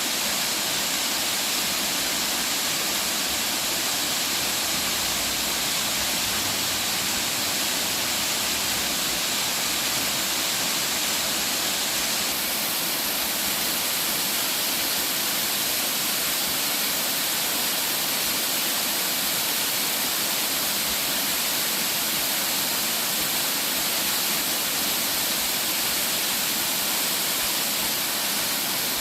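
A 120-foot double waterfall pouring into a gorge: a steady, unbroken rush of falling water.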